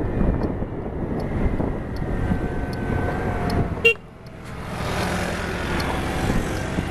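Road traffic with motor vehicle engines running. Just before four seconds in there is a short beep, then the sound drops sharply and a hissier traffic noise follows.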